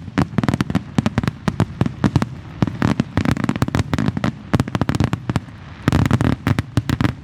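Aerial fireworks going off in rapid succession, a dense run of sharp bangs and crackles that thickens into heavier volleys about three seconds in and again near the end.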